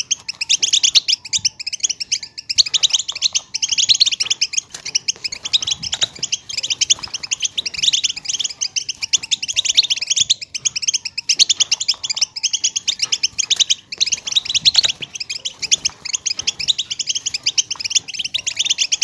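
European goldfinch twittering: a rapid, continuous chatter of high chirps and trills with no pauses.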